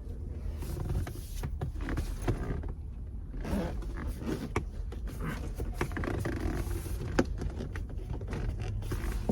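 Hands handling car interior trim and seatbelt parts: irregular rubbing and scraping with scattered sharp plastic clicks, over a steady low hum.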